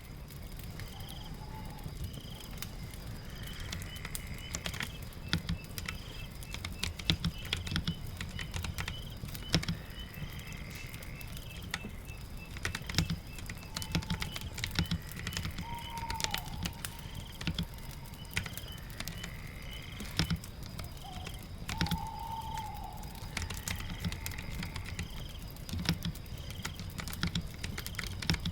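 Keyboard typing, irregular sharp keystroke clicks, over a steady rain ambience. Repeated high chirps run through it, about one a second, with a longer rising call every few seconds and a few lower whistled calls.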